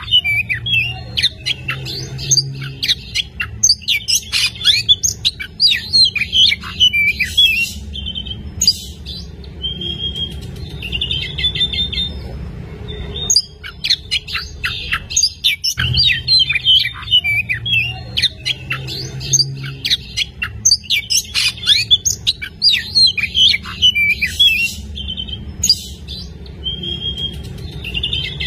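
Oriental magpie-robin (kacer) singing vigorously: a rapid, varied run of loud whistles, chirps and a few harsh squawks with hardly a pause. The same stretch of song repeats about halfway through.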